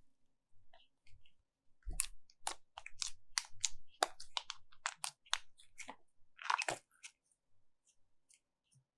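Slime being squeezed and pressed by hand, giving a run of sharp crackling pops, two or three a second, with a denser crackle near the end.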